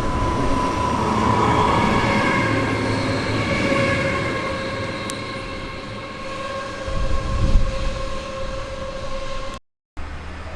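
Train running on the track: a rolling rumble with a steady whine of several tones, swelling briefly in the low end past the middle. The sound drops out abruptly about a second before the end, then comes back quieter.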